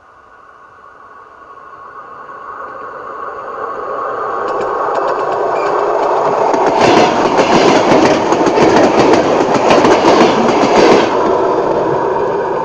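Electric commuter train approaching and passing close by, growing louder over the first several seconds. The wheels clack rapidly over the rails at its loudest, about seven to eleven seconds in, then the sound eases off a little.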